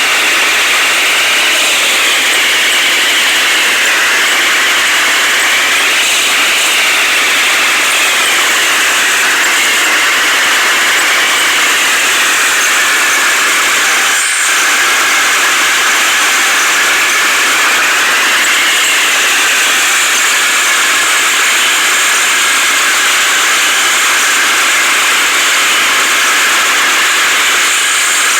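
Heavy machinery engine running loud and steady, with a whine that rises and falls every few seconds.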